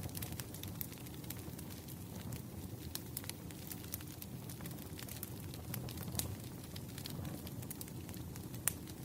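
Wood fire burning: a steady low rush of flames with frequent irregular crackles and pops from the logs, one louder pop near the end.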